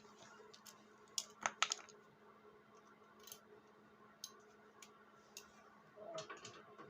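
Scattered light clicks and taps of hand work on small snow blower parts during the pull-start rope replacement, with a quick cluster of three sharp clicks a little over a second in and a brief rustle near the end.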